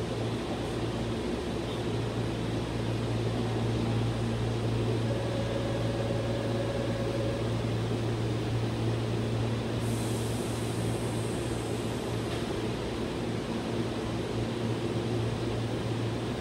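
Keihan 13000-series electric train standing at the platform with its doors open: a steady low hum of its air-conditioning and auxiliary equipment. A faint higher steady tone sounds for a couple of seconds about five seconds in, and a faint high hiss joins about ten seconds in.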